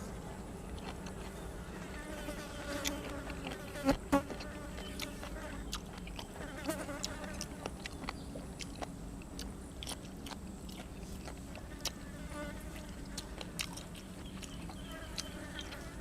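A person chewing and biting grilled cuttlefish and crisp raw vegetables, with many sharp crunches; the two loudest come about four seconds in. A steady hum runs beneath.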